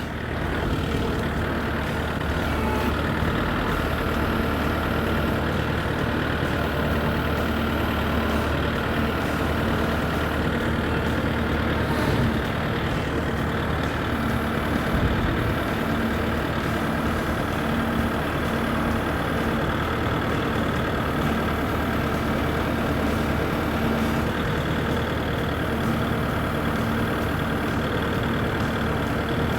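Kubota MX5400 tractor's four-cylinder turbo diesel engine running steadily, rising a little in level about half a second in.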